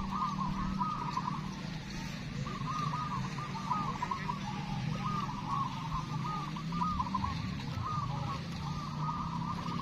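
Many zebra doves (perkutut) cooing at once, their short trilled coos overlapping almost without a break, over a low steady hum.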